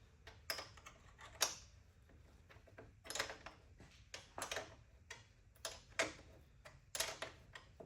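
Hand tools and metal suspension parts clicking and knocking lightly at irregular intervals, about a dozen short sharp clicks.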